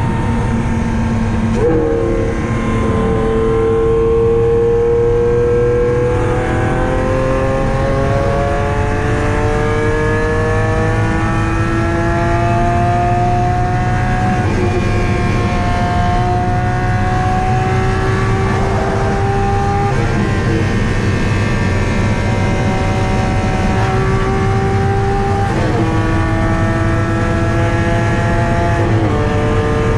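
Lamborghini Aventador SV's V12 engine running through an Fi aftermarket exhaust, its note climbing slowly in pitch and then dropping sharply several times, about halfway through, then near two-thirds and again near the end, over a steady low rumble.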